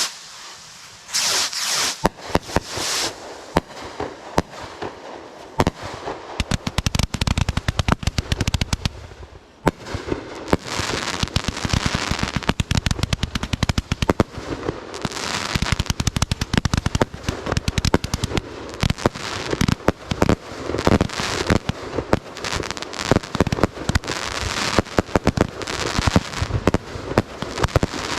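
Consumer fireworks going off: dense, rapid crackling and popping throughout, with short hissing bursts in the first few seconds.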